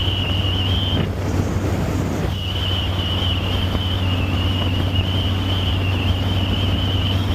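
Wind buffeting the microphone of camera glasses worn by a rider at speed with the helmet visor up, over the steady low running of a Harley-Davidson Softail Standard's Milwaukee-Eight V-twin. A high, wavering whistle rides on top and drops out for about a second, a second in.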